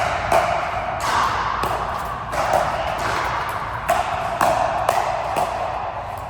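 A rally of repeated sharp ball-and-racket hits, about one every half second to second, each ringing and echoing briefly.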